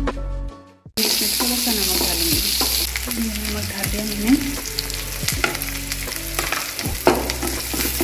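Sliced onion, green chillies, ginger and garlic sizzling in hot oil in a kadai, stirred with a spatula that scrapes repeatedly across the pan. Background music fades out in the first second before the sizzling takes over.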